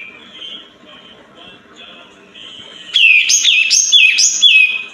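Pied triller (kapas tembak) song: a few faint high notes, then about three seconds in a loud run of four quick whistled notes, each falling in pitch.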